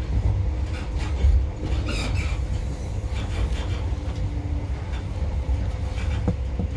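Passenger train running along the track: a steady low rumble with a few short clicks and rattles.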